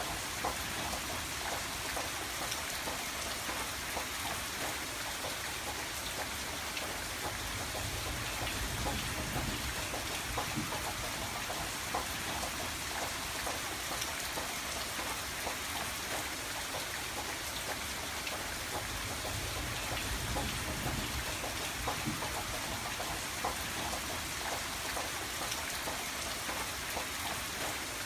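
Steady rain falling on a window, a continuous hiss with many small drop ticks against the glass.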